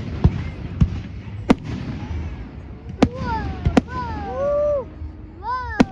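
Fireworks display: a string of sharp bangs from bursting shells, about seven in six seconds, over a low rumble. From about halfway through, voices call out in drawn-out exclamations that rise and fall between the bangs.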